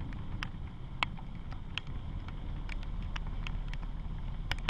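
Raindrops ticking irregularly, a few a second, on a helmet-mounted microphone, over a steady low rumble of vehicles idling in traffic.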